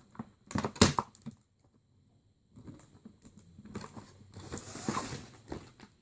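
Toy packaging being handled and pulled apart: a quick cluster of clicks and knocks about a second in, then a longer crinkling rustle in the second half.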